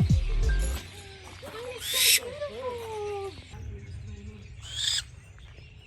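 A captive bird of prey giving a harsh, hissing screech twice, about 2 seconds and 5 seconds in, each call short.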